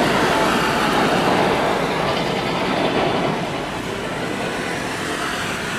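Jet engine noise from a Boeing 777-300ER on its landing pass, a steady rushing sound that drops a little about three seconds in.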